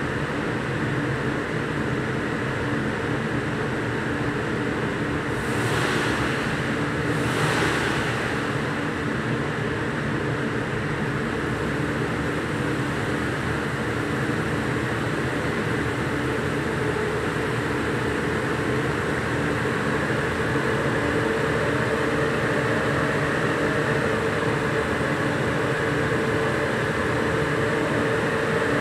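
The 2300's engine running steadily on a rolling road. Two short rushes of hiss come about six and seven and a half seconds in, and the note gets a little louder and higher from about two-thirds of the way through.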